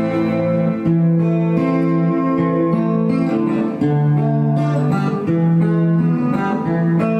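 Acoustic guitar fitted with a piezo pickup, strumming chords about once a second and letting them ring between strums.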